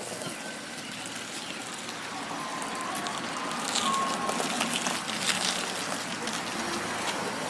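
Truck being slowly manoeuvred into a parking spot: a steady vehicle noise under an even outdoor hiss, growing slightly louder about halfway through.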